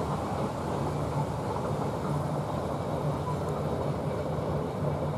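Passenger train running along the line, heard from inside the carriage: a steady low rumble of wheels on rails.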